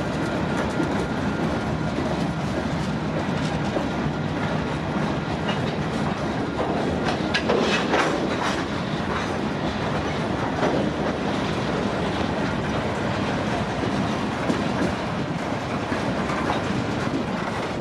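CPKC freight train cars rolling past, a steady rumble of steel wheels on rail with clicking over rail joints. A cluster of sharp metallic clanks stands out about seven to eight seconds in.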